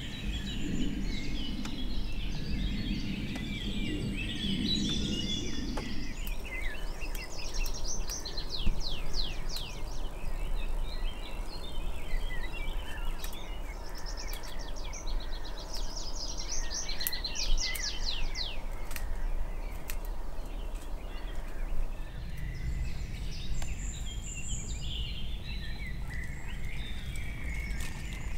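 Songbirds singing in woodland, with two runs of fast, repeated sweeping notes near the middle over a steady outdoor background. A low rumbling noise comes in at the start and again near the end.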